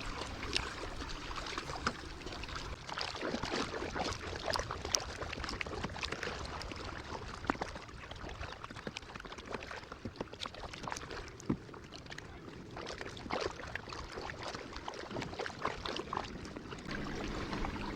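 Water lapping and trickling around a kayak, with scattered small drips, splashes and light knocks.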